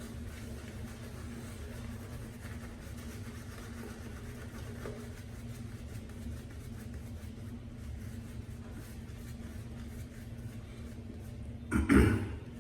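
Steady low hum of a small room's background machinery. Near the end comes one short, loud splash as a boar-bristle shaving brush is dunked in water.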